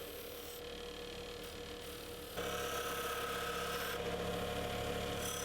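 Motor-driven brass wire wheel running with a steady hum, getting louder a little over two seconds in, while dirt and rust are cleaned off a dirt-bike part.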